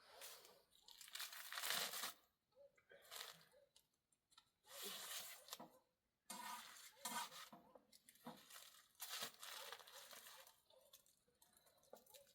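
Faint, irregular bursts of rustling, tearing and crunching noise, several in a row with short gaps between them.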